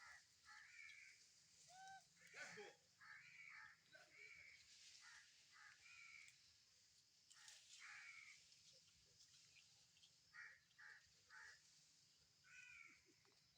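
Faint, short high-pitched animal calls, repeated irregularly as squeaky, arching cries.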